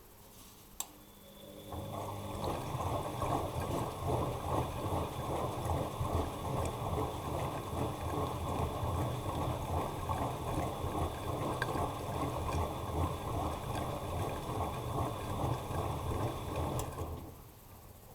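Bosch Maxx Advantage WFCX2440 washing machine during the wash phase: a click, then the drum turns for about fifteen seconds with water and laundry churning and sloshing inside, then stops.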